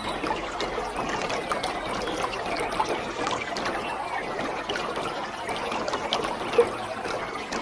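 Waterfall: a steady rush of falling, splashing water, with one brief louder blip about six and a half seconds in.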